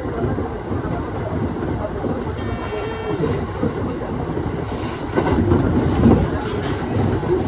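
Aoimori Railway 701-series electric train running on the line, heard from inside the front car: a steady rumble of wheels on rails. There is a brief high tone about three seconds in, and the running noise gets louder for a moment about five seconds in.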